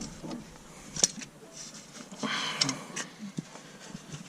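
Tools being handled: a sharp click about a second in, then rustling with a couple of light clicks and knocks, as the puller and a socket are picked up.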